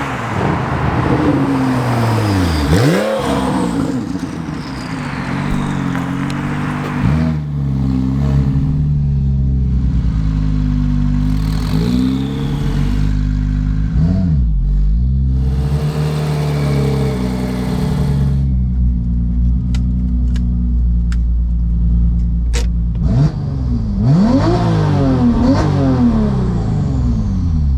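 Porsche 996 911 Turbo's twin-turbo flat-six, breathing through an aftermarket titanium X-pipe exhaust, revving up and falling back repeatedly as it pulls through the gears. A few sharp clicks come about two-thirds of the way in.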